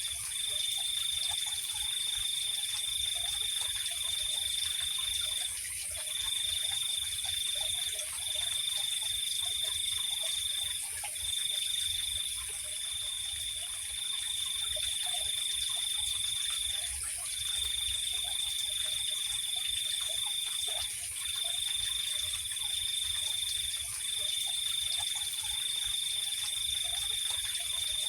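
Night insect chorus: a cricket trilling at one high pitch in runs of a few seconds with short breaks, over a constant higher-pitched insect hiss.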